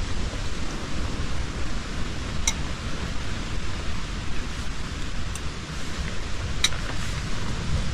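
Storm wind blowing hard, with gusts buffeting the microphone over a steady rushing noise. Two brief sharp ticks come through, one a couple of seconds in and one near the end.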